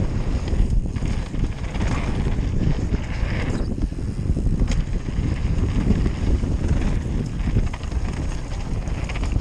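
Wind buffeting a GoPro microphone as a downhill mountain bike rolls fast over a dirt jump trail, with a steady low rumble from the tyres and a scatter of small rattles and clicks from the bike.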